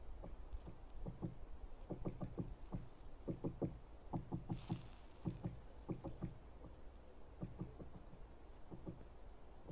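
Woodpecker knocking on a tree trunk with its bill, in irregular bursts of two to four quick taps with short gaps between, thinning out near the end. A short burst of hiss about halfway through.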